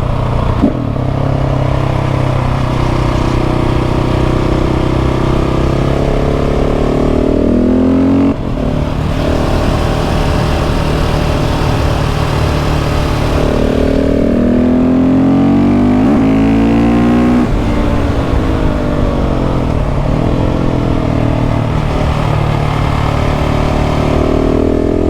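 KTM 690 SMC R's LC4 single-cylinder engine through an aftermarket exhaust, accelerating hard and shifting up and down through the gears, its pitch climbing and dropping again and again.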